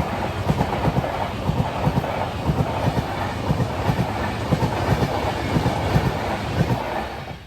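Vande Bharat Express train running past at speed, its wheels clattering over the rail joints in a fast, regular rhythm over a steady rumble. The sound cuts off suddenly near the end.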